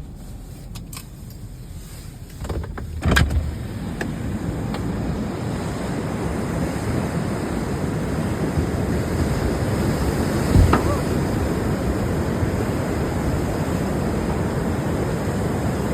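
Muddy flash-flood water rushing down a creek in a steady, even roar that sounds like the ocean. It comes in loud after a knock about three seconds in, with another knock partway through.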